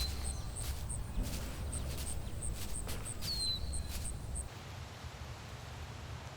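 Outdoor ambience with bird chirps: two short downward-sliding chirps over a steady run of very high peeps about three a second, a few clicks and a low rumble. It all cuts off about four and a half seconds in, leaving a faint hiss.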